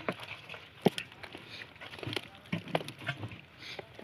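Scattered sharp knocks and clatter, the loudest about a second in, with a few softer taps after it.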